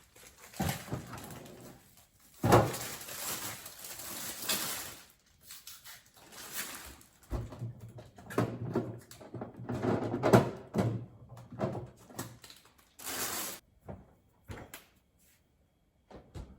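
Groceries being handled and set down on a surface: irregular knocks, clatter and rustling of packaging, with a sharp knock about two and a half seconds in, thinning to a few clicks near the end.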